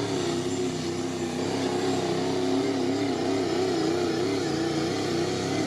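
Modified diesel pickup truck pulling a sled at full throttle. The engine note is held high and steady, then wavers up and down in pitch in the second half.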